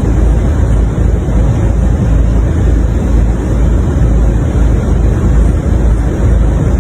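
Storm wind buffeting the microphone: a loud, steady, deep rumble that cuts off suddenly at the end.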